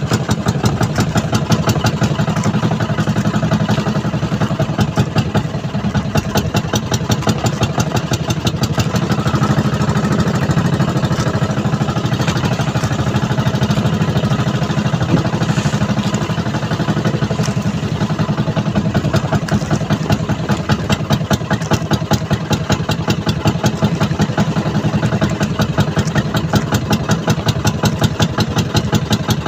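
Small fishing boat's engine running steadily at a constant speed, with a rapid, even pulse.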